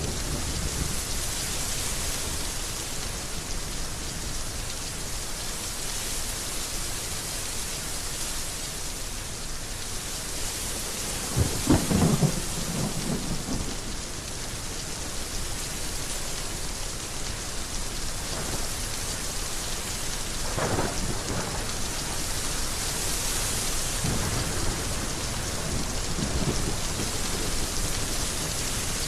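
Heavy rain falling steadily, with a sharp thunderclap and rumble about twelve seconds in, the loudest moment, and a fainter roll of thunder about twenty-one seconds in.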